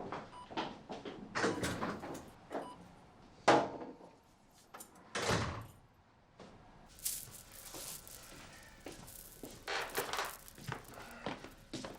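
Scattered knocks and clicks with a few short rushes of noise, like handling and door sounds; a single sharp knock about three and a half seconds in is the loudest.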